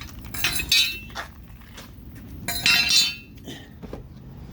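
Metal running-board brackets and bolts clinking and jangling together as they are handled, in two short clusters: one about half a second in and another just before the three-second mark.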